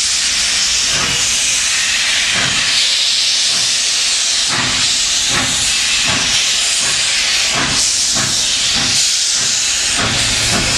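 Soviet class L steam locomotive venting a loud, steady hiss of steam, with irregular exhaust puffs from the engine that come closer together in the second half.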